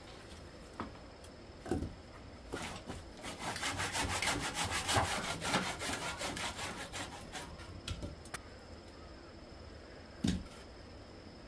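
Rapid back-and-forth scraping strokes on wood for about five seconds, loudest in the middle. A few single knocks come before and after.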